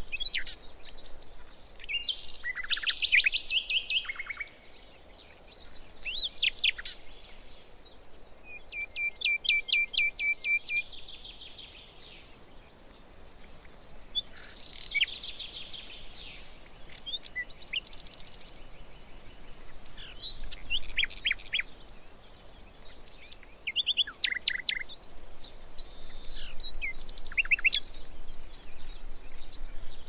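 Several songbirds singing and calling one after another: short chirps, whistled notes and rapid trills, including a fast even trill about a third of the way in.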